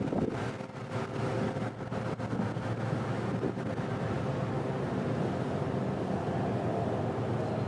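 Ship's machinery running with a steady hum, with wind buffeting the microphone during the first couple of seconds.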